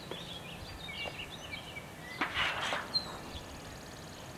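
Small birds chirping and twittering, with one louder, rougher call a little over two seconds in.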